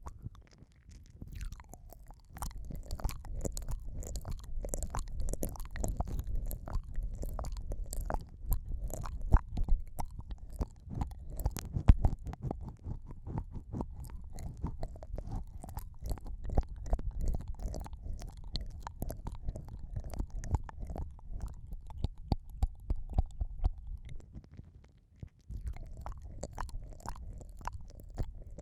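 ASMR ear-eating mouth sounds: dense wet clicks, smacks and licking made with the mouth right against the microphone, over a low rumble. They stop for about a second near the end, then go on.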